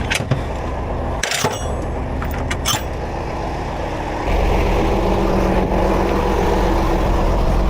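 Heavy tow truck's engine running steadily, with a few sharp metallic clanks in the first three seconds; about four seconds in the engine suddenly grows louder and deeper and holds a steady, even note.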